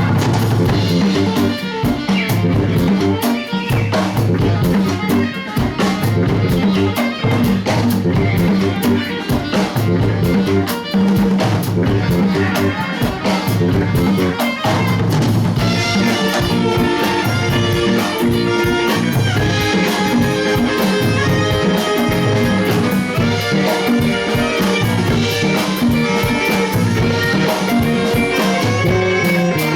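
A live band playing, with drum kit keeping a steady beat under guitar and other pitched instruments; the pitched parts grow fuller about halfway through.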